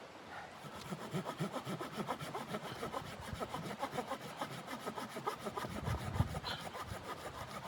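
Hand saw cutting through wood in quick, even rasping strokes.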